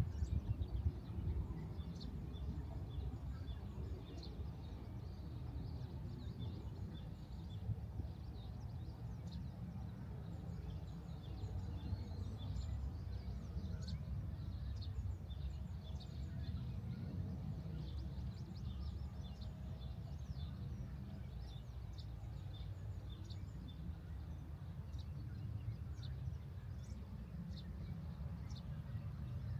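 Small birds chirping in short, repeated high notes over a steady low rumble.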